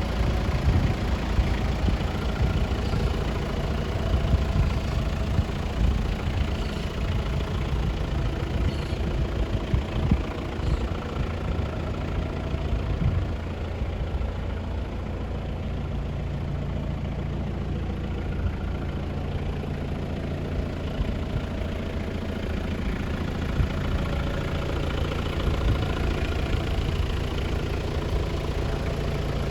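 Turbo-diesel engine of a 2003 Toyota Hilux 4x4 idling, a little uneven at first and settling to a steady low hum about halfway through.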